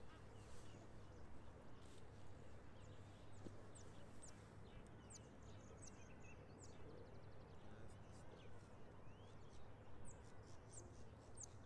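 Faint birdsong: many short, high chirps and a couple of quick trills from small birds, over a steady low hum.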